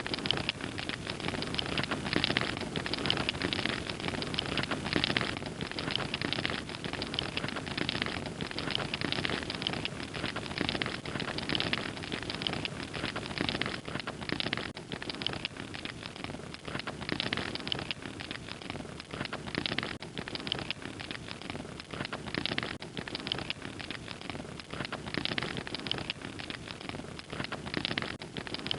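A fire crackling: a dense, steady run of small pops and snaps over a soft hiss.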